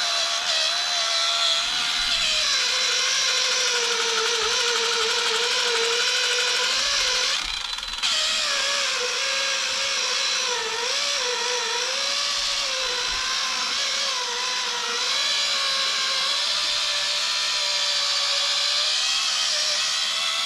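Kimo 20V cordless 4-inch polisher running steadily as it buffs plastic. Its motor whine wavers in pitch as the pad is worked over the surface, and it dips briefly about eight seconds in.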